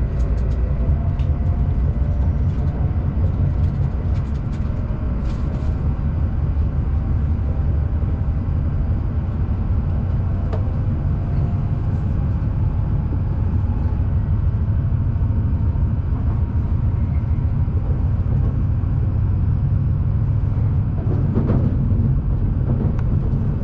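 Shinkansen bullet train running: a steady low rumble.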